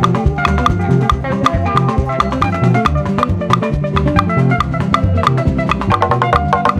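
Live band music, instrumental: drum kit and hand percussion playing a fast, steady beat under pitched instruments, with no singing.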